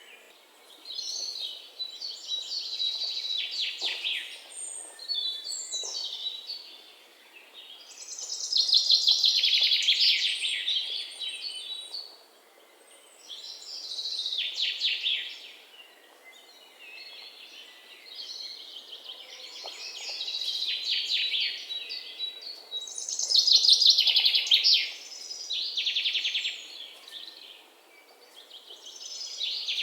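Birdsong: fast, high trilled phrases of about one to three seconds, repeated every few seconds with short pauses between them, over a faint steady background hiss.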